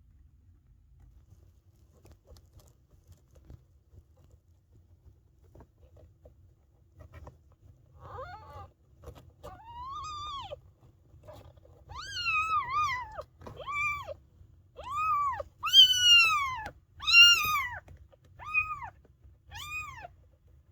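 Newborn Maine Coon kittens mewing: about nine thin, high cries, each rising and falling in pitch. They begin about eight seconds in after a quiet stretch and grow louder toward the end.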